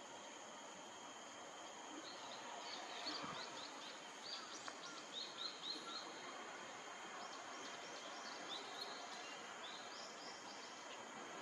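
Small birds chirping in quick series of short, high notes, several runs in the first half and a few later. Under them runs a steady high insect drone.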